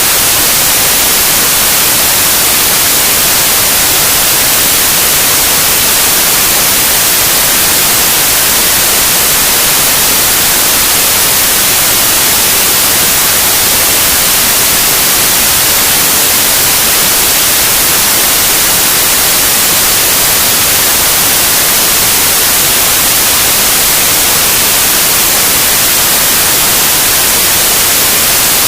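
Loud, steady white noise: an even hiss with no change.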